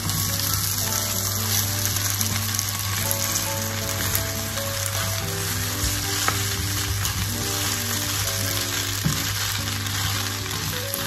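Glass noodles and napa cabbage sizzling steadily in a hot frying pan as they are stirred and tossed with a wooden spatula, with a couple of sharp knocks partway through.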